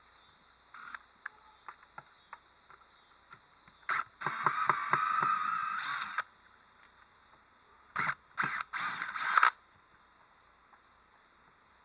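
Hand work on car audio parts: scattered light clicks and knocks, then a loud scraping, grinding mechanical burst of about two seconds and, a few seconds later, a second broken burst of the same kind.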